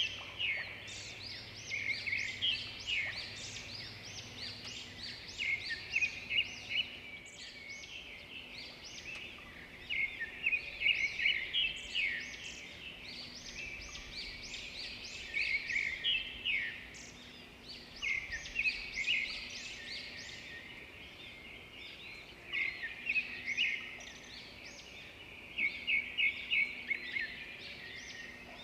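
Small songbirds chirping and singing in bursts of rapid, high-pitched notes, several voices overlapping, with short lulls every few seconds.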